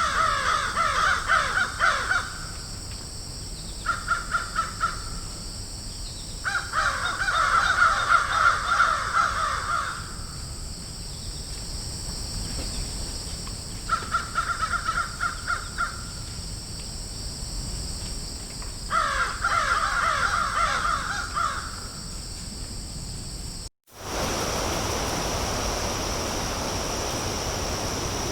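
Crows cawing in a field in five bouts of rapid, repeated caws, separated by pauses of a few seconds. About 24 s in the sound drops out briefly, and a steady hiss follows.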